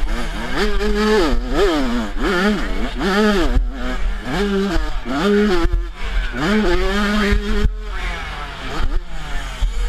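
Motocross dirt bike engine revving up and down over and over as the throttle is opened and shut, the pitch climbing, holding briefly, then dropping, about once a second. It runs lower and quieter for a moment about eight seconds in, over a steady low rumble.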